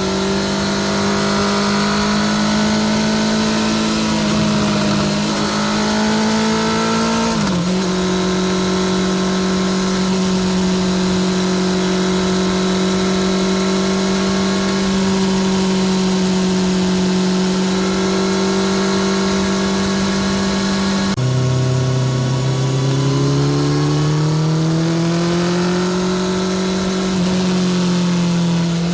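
Honda CBR650R's inline-four engine running loud through a Spark titanium short exhaust at steady revs while riding, with a brief dip in pitch about seven seconds in. About two-thirds of the way through the revs drop suddenly and then climb steadily again under acceleration.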